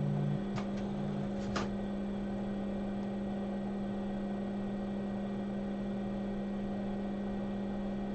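A steady electrical hum from the bench equipment, with a lower tone pulsing on and off during the first second or so. A few faint clicks follow, about half a second to a second and a half in.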